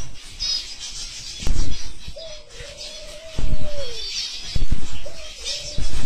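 Birds chirping in short high bursts, with two long steady whistled notes that each slide down at the end. Low thumps come in between and are the loudest sounds.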